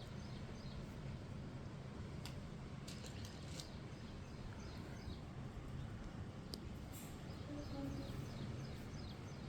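Outdoor ambience: a steady low rumble with small birds chirping repeatedly. A few sharp clicks come and go.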